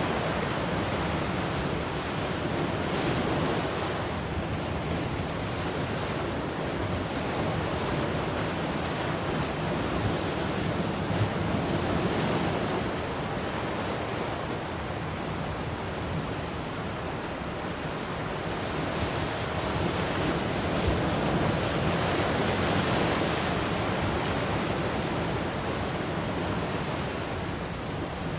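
Ocean waves breaking and washing on a shore, a continuous surf rush that swells and eases every several seconds, with some wind on the microphone.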